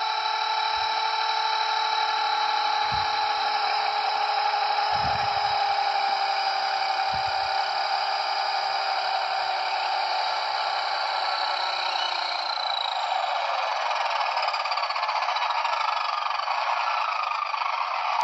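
Blade 230S V2 RC helicopter's electric motor and rotor whining steadily after touchdown, then falling slowly in pitch from about twelve seconds in as the rotor spins down. A few soft low thumps come in the first half.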